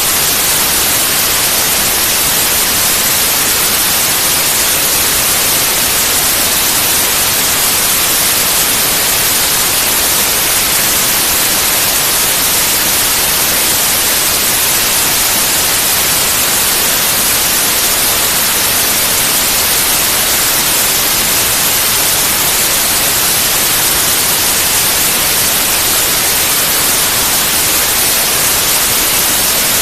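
Steady white noise: an even, unchanging hiss with no tones or breaks, strongest in the high frequencies.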